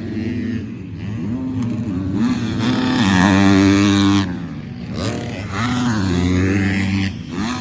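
250cc four-stroke motocross bikes revving hard on the throttle, the engine note climbing and dropping at gear changes and off-throttle chops. The loudest run ends abruptly about four seconds in, and another bike climbs through the revs from about five and a half seconds.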